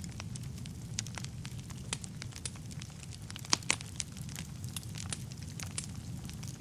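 Wood fire crackling in a fireplace: irregular sharp pops and snaps over a steady low rumble of the flames, with one louder pop about three and a half seconds in.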